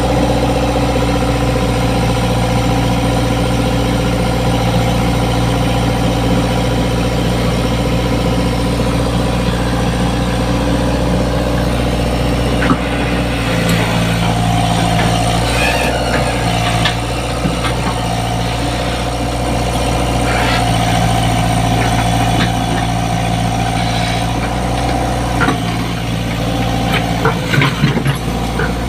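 Komatsu PC75 excavator's diesel engine running steadily at idle, its note shifting slightly about halfway. Scattered sharp knocks through the second half.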